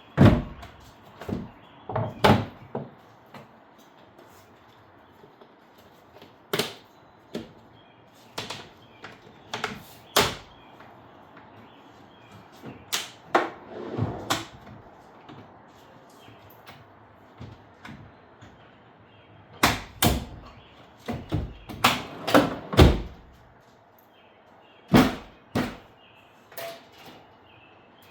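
Truck-bed camp kitchen box being closed up: a string of sharp clunks and knocks as its panels, lids and latches are folded and shut, several heavier slams bunched together past the middle, with quiet gaps between.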